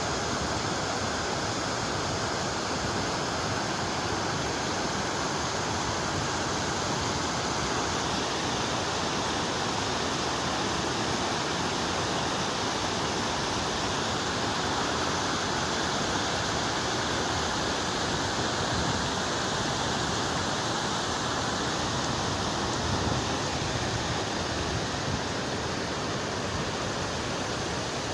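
Fast-flowing mountain water rushing steadily, an even, unbroken rush.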